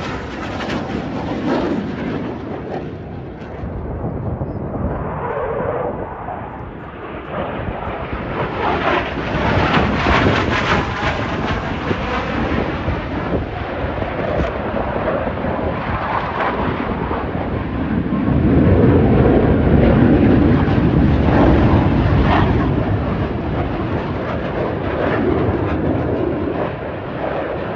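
Jet noise from Blue Angels F/A-18 Super Hornets passing over. It swells and fades in waves, with a sweeping phasing sound as a jet goes by about ten seconds in, and is loudest about two-thirds of the way through.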